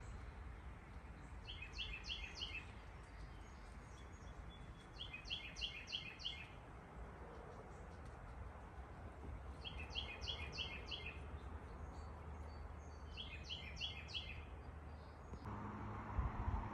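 A small songbird sings a short phrase of quick, high chirping notes four times, about every four seconds, over a steady low background rumble. Near the end the background changes to a low hum.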